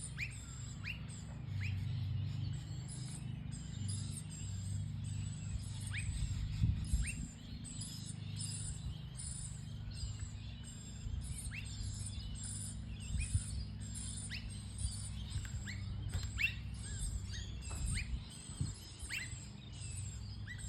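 Blue-faced honeyeaters calling: many short, sharp chirps repeated irregularly throughout, over a soft steady background.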